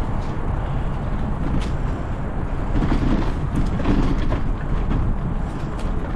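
Wind rumbling on the microphone while riding a bicycle, with the bike rattling and clicking over a rough path.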